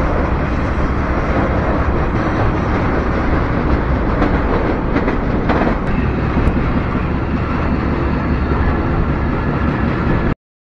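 Freight train running, heard from aboard a railcar as a steady, loud rumble that cuts off suddenly near the end.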